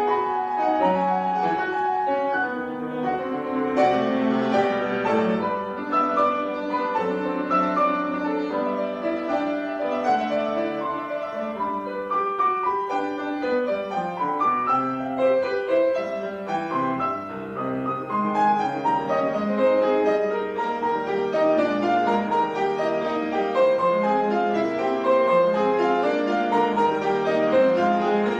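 Piano music: a continuous, even flow of notes without a break.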